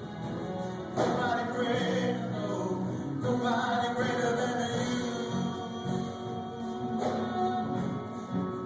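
Music: a group of voices singing a gospel-style song with accompaniment, in held notes and phrases.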